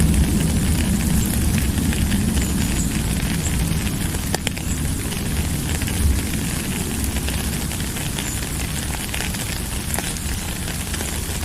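Steady rainfall, a continuous hiss with scattered drop ticks, over a deep, even low rumble.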